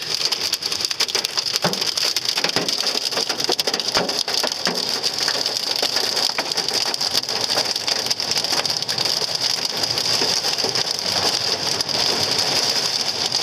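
Hail and rain pelting a car's roof and body, heard from inside the car: a steady, dense patter of countless small hits.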